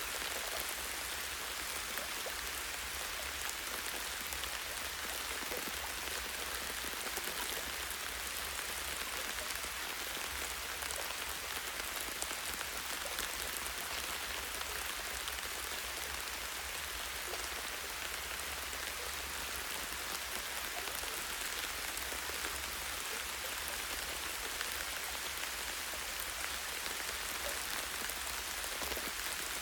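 Light, steady rain falling in a forest, drops pattering on leaves and branches.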